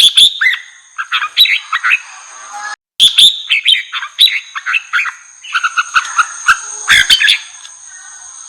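Red-whiskered bulbul singing in fired-up, contest-style song: quick runs of bright, chirpy whistled notes, one after another, with a brief total break in the sound a little before three seconds in.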